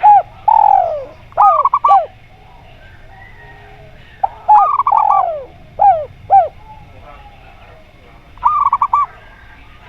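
Zebra dove (perkutut) cooing in three repeated phrases, each a falling coo followed by a quick run of short clipped notes.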